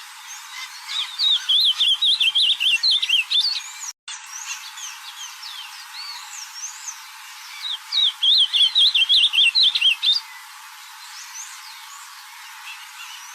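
Ultramarine grosbeak (azulão) singing two quick warbled phrases of rapidly rising and falling notes, the first about a second in and the second about eight seconds in, with fainter chirps of other birds in between.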